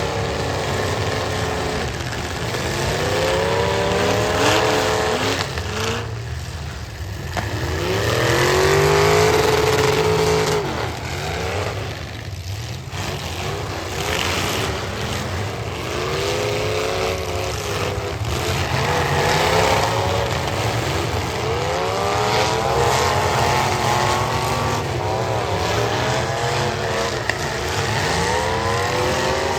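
Demolition derby cars' engines revving up and dropping back again and again, several at once and overlapping.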